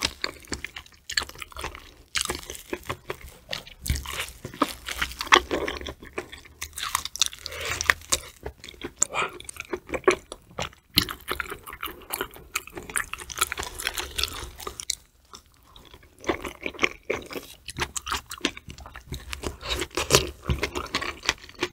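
Close-miked chewing of raw tuna belly sashimi and kiwi: wet mouth sounds and chewing made of many short, irregular clicks and smacks, pausing briefly about three-quarters of the way through.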